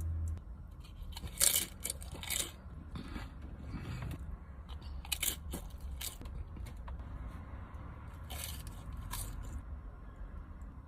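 A person eating sushi rolls close to the microphone: a few crisp crunching bites spaced through, with quieter chewing between them, over a low steady hum.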